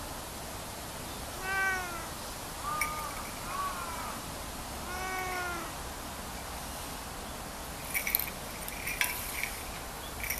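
Domestic cat meowing: two longer meows that fall in pitch, with two short chirp-like calls between them. A few light sharp clicks follow near the end.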